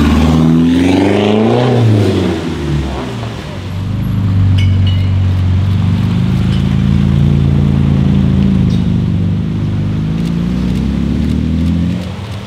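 A BMW 3 Series saloon's engine revs up and falls away as it drives past. Then a Porsche 991 GT2 RS's twin-turbo flat-six runs with a steady low note at low revs, rising a little and settling as the car pulls away slowly.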